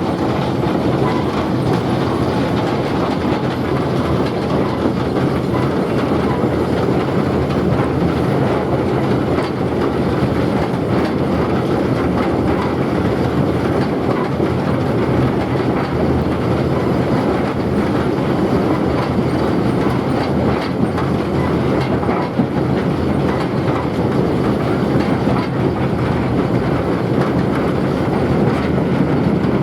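Train running along the track: a steady, loud rolling noise of wheels on rails.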